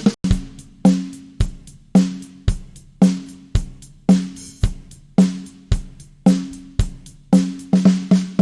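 Drum kit playing a steady beat, bass drum and snare alternating about twice a second, the snare ringing on after each hit. A quick fill of faster strokes comes near the end.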